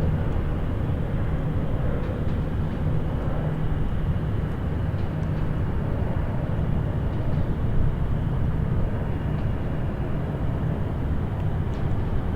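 Distant highway traffic: a steady low rumble of many vehicles passing, with no single car standing out.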